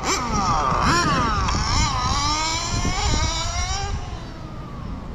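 Kyosho FW06 RC touring car's .12 nitro engine running at a high-pitched whine, revving up and down repeatedly as the car is driven, then fading away about four seconds in.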